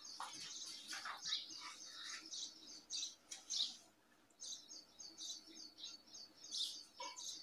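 Birds chirping faintly: a steady run of short, high chirps.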